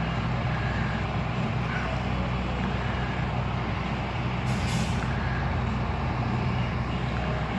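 Heavy truck's engine idling steadily, with a short hiss of air about four and a half seconds in, typical of a truck's air brakes.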